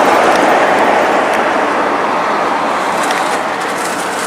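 Road traffic passing close by on a highway: a steady rush of tyre and engine noise that slowly fades.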